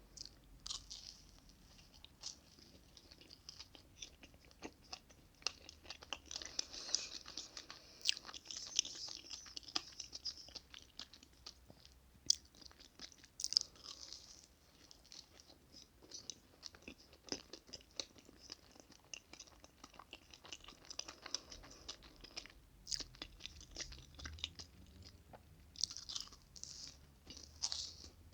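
Close-miked chewing of chocolate cake: sticky mouth sounds with many small clicks and smacks, coming in bursts.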